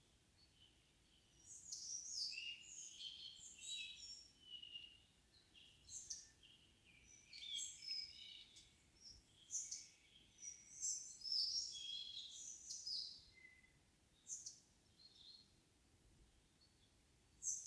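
Forest songbirds singing: quick runs of high chirping and twittering notes, dense for most of the stretch, then thinning to a few lone notes near the end.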